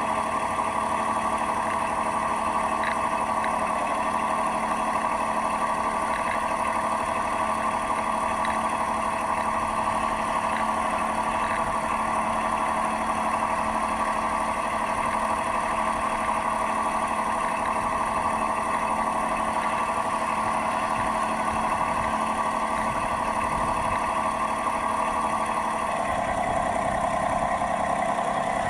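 Model lifeboat's engine sound running steadily at an even idle-like drone, shifting in tone near the end.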